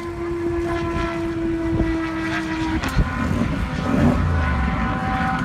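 A high-performance car running hard down an airstrip runway, its engine holding a steady note. A sharp knock sounds about three seconds in.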